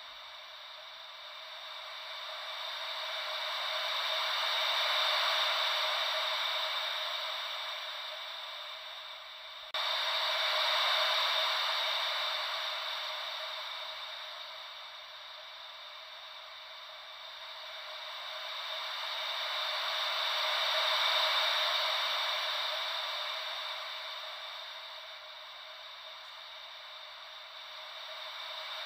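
White noise shaped to imitate gentle ocean waves: a thin hiss with no deep rumble, slowly swelling and fading in long even surges. About ten seconds in, the level jumps up abruptly.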